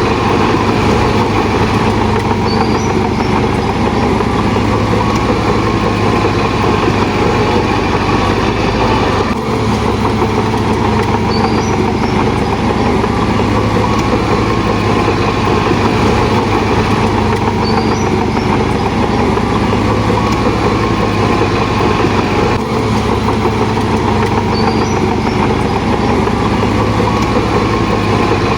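Heavy earthmoving diesel engine running steadily at a constant speed, with a strong low hum and no change in pace.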